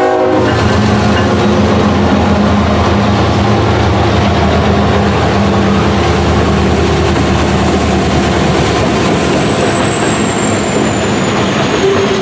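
Train passing close by, loud: a locomotive engine running over the steady rumble of wheels on rail. A thin high whine drifts slowly down in pitch toward the end.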